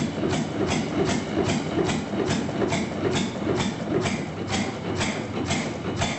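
Single-cylinder vintage stationary engine running, with a steady knocking beat of about two and a half strokes a second over a low rumble.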